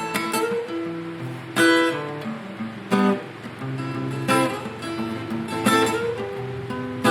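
Acoustic guitar strumming chords, with a strong accented strum about every second and a half.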